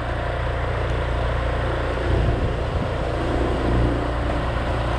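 Small motor scooter running at a steady riding speed: a low engine drone mixed with wind and road noise.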